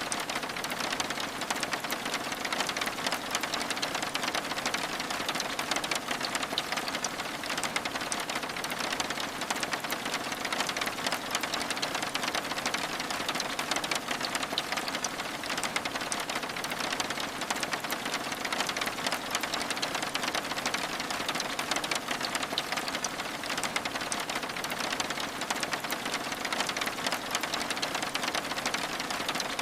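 Steady rain pattering on window glass: a dense run of tiny drop ticks over an even hiss, with no let-up.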